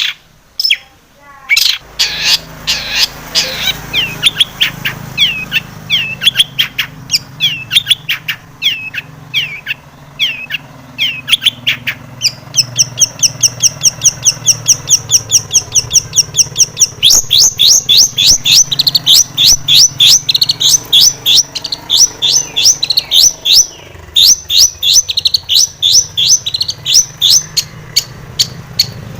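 Long-tailed shrike (cendet) singing a busy song: varied sliding notes at first, then from about twelve seconds in a long fast run of repeated high chattering notes, several a second, broken briefly near the end. A faint steady low hum runs underneath.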